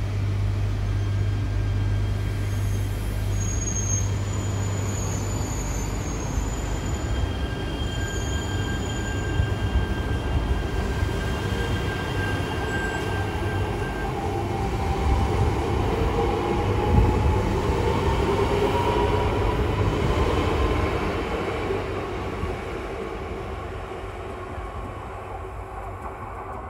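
E3 series Yamagata Shinkansen train running past on the rails, building to its loudest a little past the middle and then fading away. A rising whine is heard while it is loudest.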